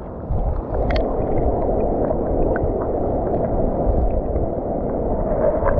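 Rushing mountain-stream water heard dull and muffled, a steady low gurgling rush with scattered faint ticks.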